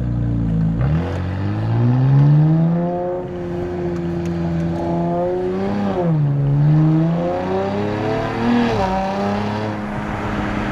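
Nissan Z Nismo's twin-turbo 3.0-litre V6 breathing through Nismo cold air intakes and the Nismo track exhaust, accelerating hard: the engine note climbs, drops with an upshift about six seconds in, climbs again and drops with another shift near nine seconds, then holds steady.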